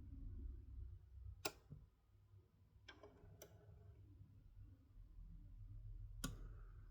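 Faint mechanical clicks from the Technics SL-QL5 turntable's controls and mechanism, four sharp clicks a second or more apart, over a quiet low hum.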